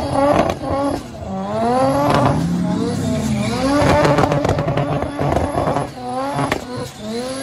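Bridgeport-ported turbo 13B rotary engine in a Mazda RX3 revving hard and repeatedly during a burnout, its pitch swinging up and down again and again while the rear tyres spin.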